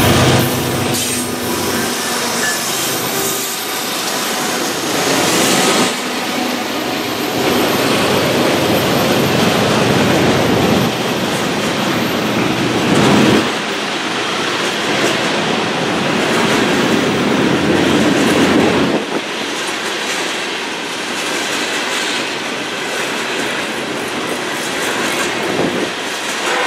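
A loaded coal train rolling past close by. It opens with the diesel locomotives going by, then a long run of loaded steel coal hopper cars gives a steady, loud rumble and clatter of wheels on the rails.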